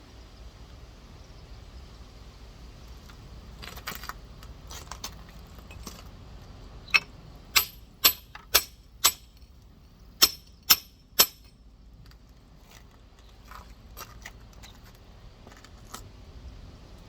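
Rock hammer striking a geode: eight sharp, ringing metallic blows, five and then three at about two a second, with softer taps before and after.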